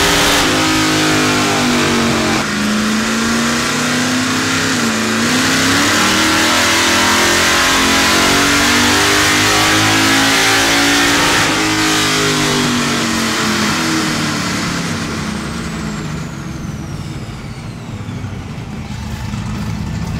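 A 347-cubic-inch small-block Ford V8 with a solid roller cam and a carburetor, run hard on a chassis dyno: the revs climb steadily under full throttle for about ten seconds, then wind down over several seconds to a lower, lumpy running as the pull ends, with a faint high whine falling away as the rollers slow.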